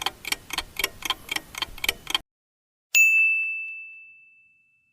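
Countdown timer sound effect: a clock ticking evenly at about three ticks a second, stopping about two seconds in, then a single bell ding about three seconds in that rings and fades away, marking that the time to answer is up.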